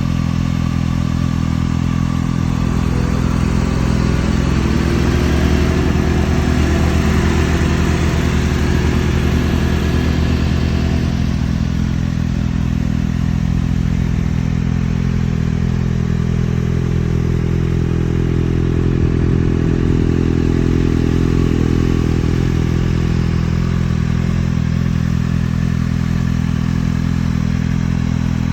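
Kawasaki ZX-6R inline-four motorcycle engine running steadily through an Akrapovic exhaust, the engine speed rising a little and settling back twice.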